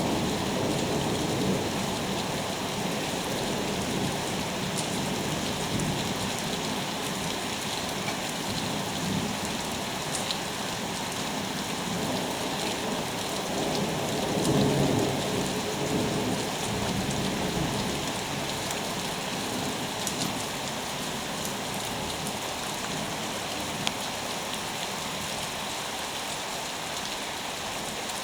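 Steady heavy rain in a summer thunderstorm, with scattered drops ticking. Low thunder rumbles at the start and swells again about halfway through.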